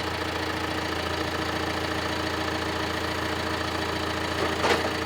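John Deere 6125R tractor's six-cylinder diesel engine idling steadily, with one sharp clank near the end.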